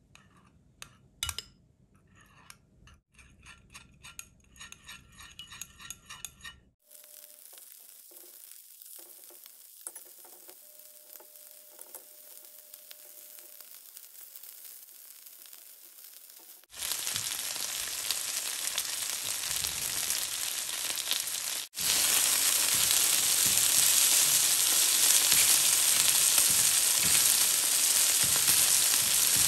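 A metal spoon clinking and scraping against a glass bowl as sauce is stirred. Then a faint hiss, then loud, steady sizzling as chicken breast slices fry in a pan, growing louder again partway through.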